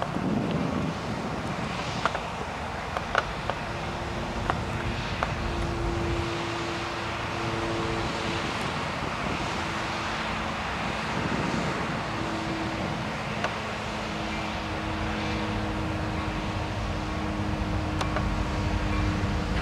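A train rolling by in a rail yard, with diesel locomotives running in a steady rumble and a few held engine tones that come and go. Scattered sharp clicks sound in the first few seconds and once near the end.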